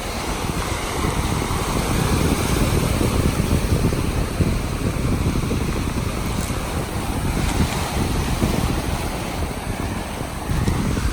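Wind buffeting the microphone in gusts, over the wash of sea waves on the shore.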